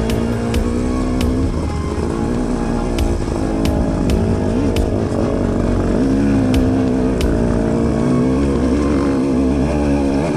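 KTM 250 XC-W two-stroke dirt bike engine running under way on a trail climb, its pitch rising and falling with the throttle.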